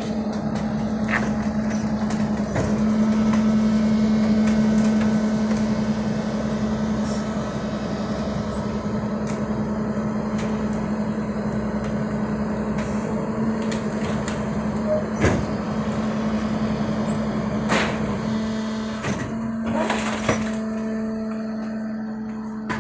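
Garbage truck engine running at a steady pitch, with a few sharp knocks and clanks.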